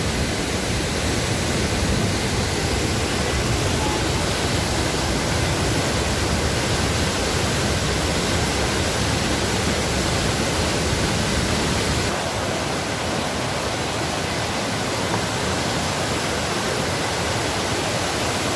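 Waterfall rushing: a steady, loud wash of falling water with no distinct events, its low rumble easing slightly about twelve seconds in.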